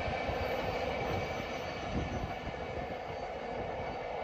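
Freight train tank cars rolling away down the track: a steady rumble of steel wheels on rails, slowly fading, with a few faint clicks.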